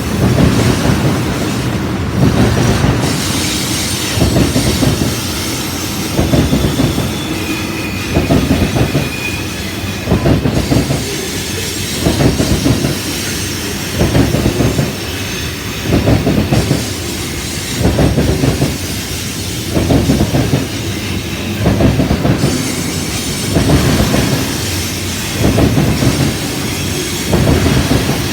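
Freight train cars rolling past, their wheels clacking over rail joints in a steady rhythm, one loud group of clacks about every two seconds. A brief faint wheel squeal comes about eight seconds in.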